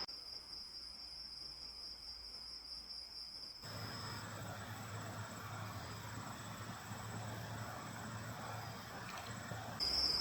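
Night insects trilling in one steady, unbroken high tone that drops out about four seconds in, leaving a faint low hum and hiss, and comes back near the end.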